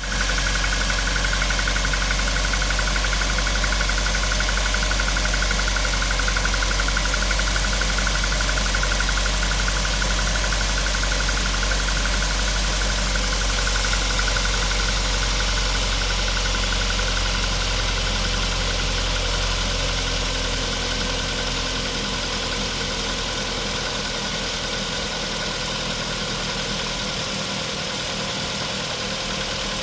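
Hyundai Santa Fe's 2.4-litre G4KE four-cylinder idling cold with a knock, which the owner takes for a piston knocking in cylinder 4; the knock stayed after the timing chain was replaced. The engine note eases down slightly about twenty seconds in.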